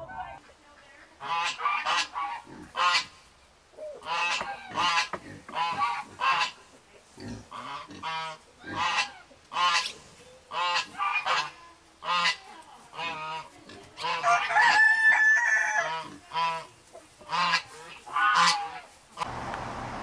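Birds calling: a long run of short, repeated calls, about one a second, with a longer, drawn-out call around fourteen to sixteen seconds in.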